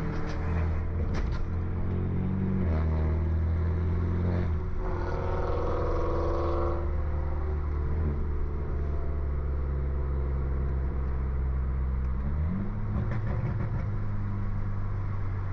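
Tuned, straight-piped BMW F30 328i engine and exhaust droning at low, fairly steady revs while driving, its pitch stepping as revs change a few times and rising briefly near the end. A second, higher-pitched sound comes in for about two seconds near the middle.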